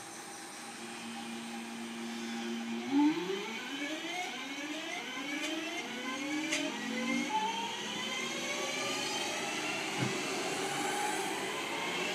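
A multiple-unit passenger train pulling away from the station platform. Its traction whine climbs in pitch in repeated rising steps over a steady, growing rumble, with a sharp click part-way through and a low thump near the end.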